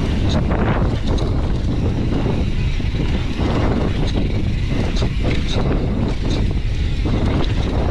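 Strong wind buffeting the microphone: a steady low rumble that does not let up, with a few faint short ticks.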